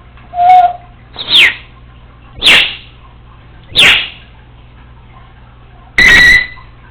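Congo African grey parrot calling five times: short loud whistles, several sweeping sharply down in pitch, ending with a harsher, flat-toned squawk.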